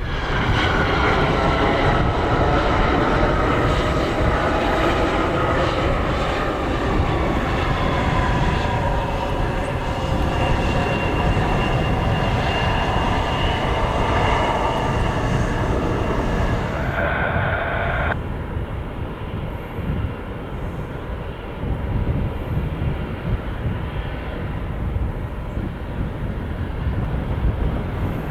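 Jet airliner's engines passing close: a whine that falls slowly in pitch over the first ten seconds, over a steady rumble. The whine cuts off abruptly about eighteen seconds in, leaving the rumble.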